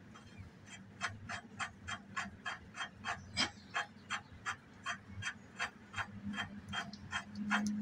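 Ratchet wrench clicking steadily, about three clicks a second, as the mower's blade bolt is turned; the clicking starts about a second in.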